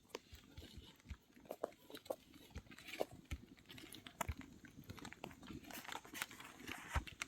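Scattered light knocks and clicks at an uneven pace, over a faint low background noise.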